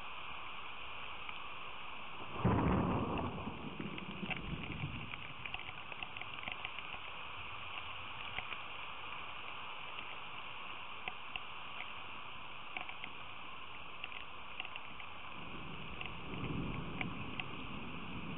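Steady rain with scattered drops ticking on the feeder camera's microphone. A sudden clap of thunder about two and a half seconds in rumbles off over a couple of seconds, and a softer roll of thunder comes near the end.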